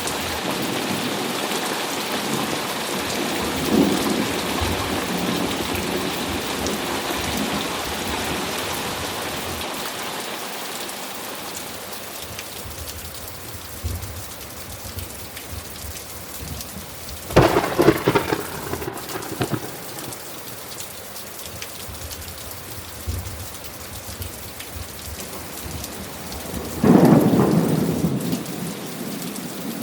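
Steady rain falling during a thunderstorm. A long rolling rumble of thunder dies away over the first dozen seconds. Sharp thunderclaps come about 17 seconds in and again near the end.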